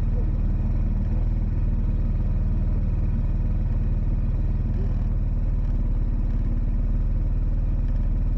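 A motor vehicle's engine running at a steady speed, a continuous low drone with a fast, even pulse and no change in pitch.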